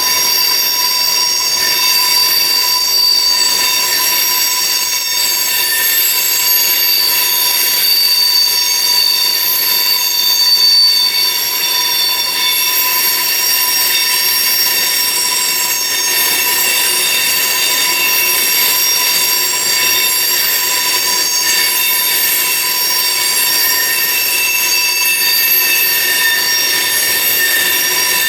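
Freight car wheels squealing as they grind around a tight railroad curve, several steady high-pitched tones sounding at once without a break.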